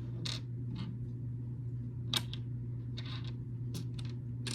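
Small plastic building bricks clicking and clattering as they are sorted by hand: several separate sharp clicks, spread unevenly, over a steady low hum.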